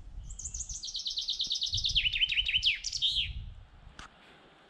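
A songbird sings one song of about three seconds: a quick series of repeated high notes that drop into lower, swooping notes and end in a short flourish. A low rumble runs underneath and fades near the end.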